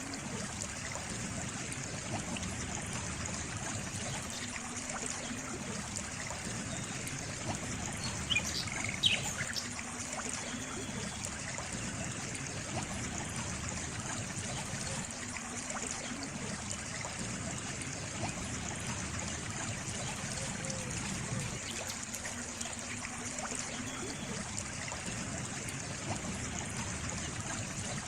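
Water trickling and flowing steadily, like a small stream. A few brief high chirps stand out about a third of the way in.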